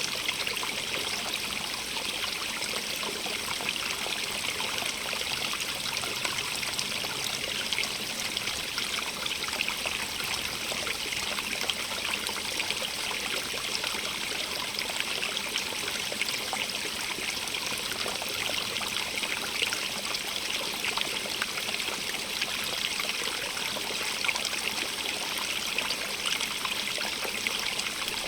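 Running water rushing and trickling steadily, an even, bright wash of sound with fine splashing throughout.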